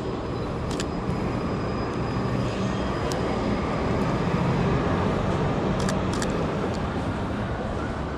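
Steady city traffic rumble with a faint high whine in the first half, and a few sharp clicks scattered through it.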